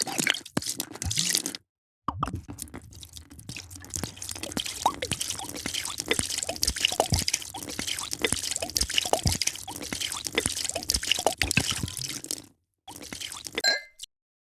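A drink being poured into a glass: a splashing, bubbling stream of liquid in several short takes cut together with abrupt stops. Near the end there is a brief ringing tap, like glass.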